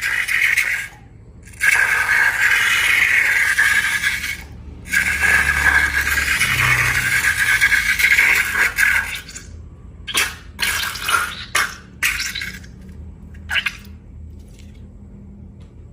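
Wet, hissing sound of liquid slime ingredients pouring out of a balloon, in three long stretches, then a run of short spurts toward the end.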